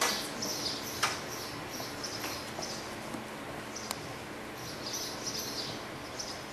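Small birds chirping in short, high repeated bursts over a steady background hiss, with a few sharp clicks.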